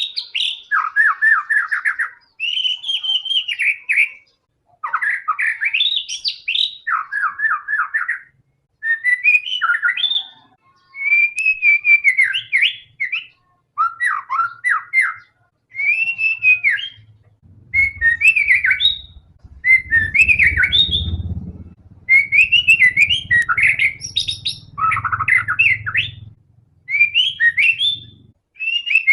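White-rumped shama singing a steady run of varied phrases, each a second or two long, mixing rapid trills and slurred whistles, with short pauses between. A low rumble sits under the song for several seconds in the second half.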